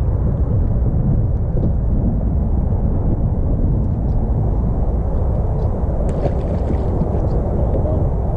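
Strong wind buffeting the microphone: a steady, loud low rumble with no distinct tone.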